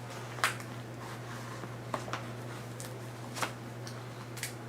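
Scattered light clicks and rustles from handling a respirator mask and its rubber-band straps, about six short ticks spread over a few seconds, over a steady low hum.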